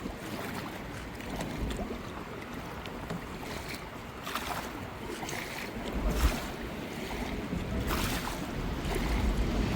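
Kayak paddles dipping and splashing in river water in irregular strokes, with wind gusting on the microphone.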